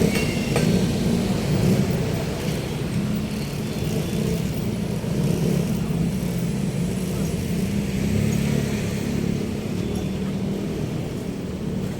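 Motor vehicle traffic: a steady, low engine and road rumble.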